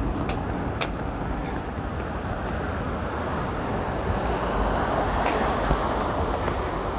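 Steady road traffic noise from a busy main road, swelling as a vehicle passes about five seconds in, with a few faint clicks.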